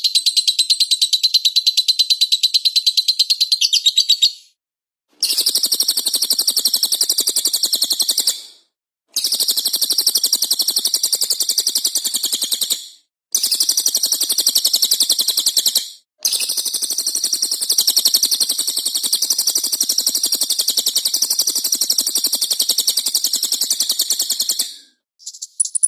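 Recorded songbird giving a rapid, continuous high-pitched chattering trill, in runs of several seconds broken by short silent gaps.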